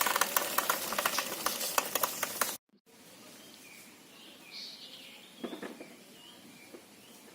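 A worn motorcycle drive chain on a Yamaha New Vixion clattering in rapid, even clicks as the rear wheel spins, loud enough to show it is due for replacement. It cuts off abruptly about two and a half seconds in, leaving faint outdoor background with a few bird chirps.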